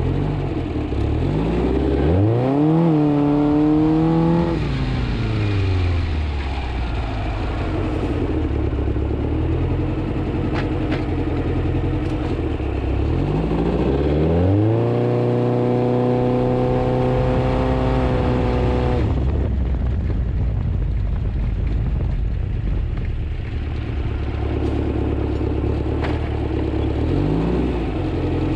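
The VW engine of a rock-crawler buggy running while still cold, revved up three times. Each time the pitch climbs, holds high for a few seconds and then falls back to idle; the longest rev, about halfway through, drops off sharply.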